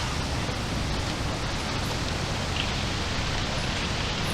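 Strong wind blowing across the microphone: a steady rushing noise, heaviest and most uneven in the low end.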